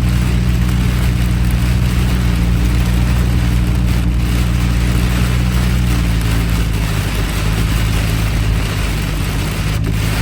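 Car engine running at low speed with a steady hum while the car drives through deep floodwater, over a continuous hiss of heavy rain and water. The engine hum eases about six seconds in.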